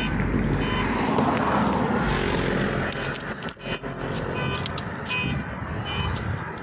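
Wind rushing over the microphone and road traffic during a bicycle ride, loudest in the first few seconds. Short high chirps repeat about once a second throughout.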